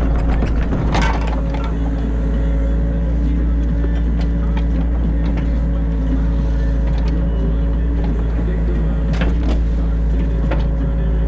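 New Holland E50.2 mini excavator's diesel engine running steadily under load, heard from inside the cab. A burst of crunching and knocking comes about a second in, and a couple of short knocks near the end, as the machine digs the ditch.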